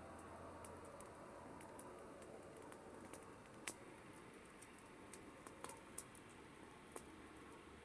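Wood campfire crackling: irregular sharp pops and snaps over a soft steady hiss of burning, with one louder pop about halfway through.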